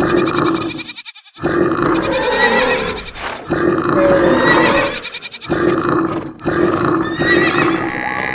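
Animal roars and grunts in a run of short clips, each a second or two long, broken by brief gaps.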